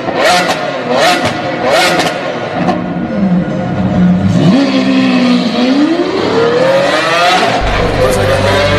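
Car engine revved in quick repeated blips, each with a sharp crack, for the first couple of seconds. Then a steadier engine note that dips and climbs in a long rising sweep as the car accelerates.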